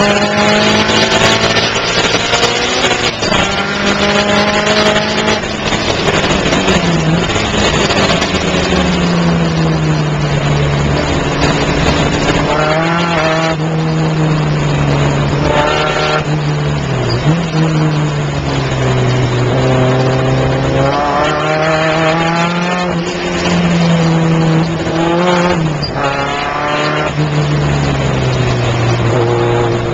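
Car engine heard from inside the cabin on a circuit lap, revving up and dropping back with each gear change and corner, over a steady hiss of road noise.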